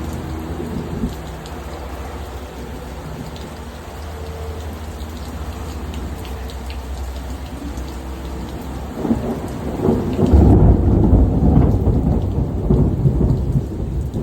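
Steady rain falling during a thunderstorm, with low thunder rumbling. About nine seconds in, a much louder peal of thunder builds and keeps rolling.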